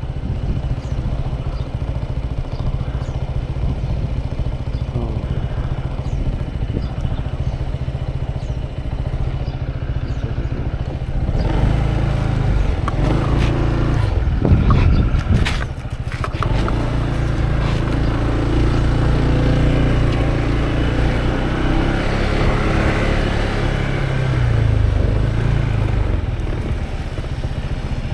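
Motorcycle engine running as the bike is ridden, its note rising and falling with the throttle. About twelve seconds in it gets louder, with a couple of seconds of rattling and knocks.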